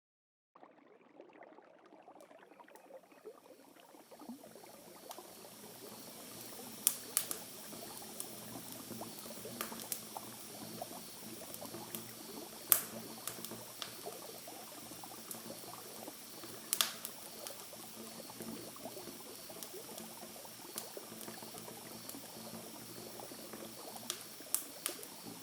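Campfire crackling steadily, with a sharp pop from the burning wood every few seconds. It fades in over the first few seconds.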